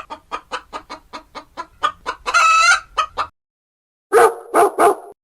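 Chicken cackling: a quick run of short clucks, about five a second, ending in one longer drawn-out squawk. After a brief break come three short, loud calls in quick succession.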